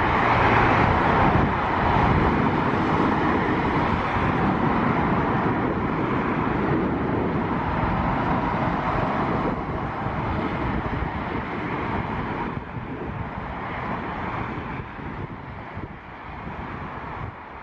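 Jet airliner engines passing, a broad noise that is loudest at the start and slowly dies away as the aircraft moves off.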